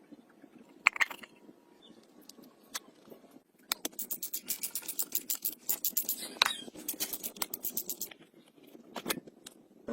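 Rapid, repeated scraping strokes, several a second, lasting about four seconds, with a few separate sharp clicks or knocks before and after.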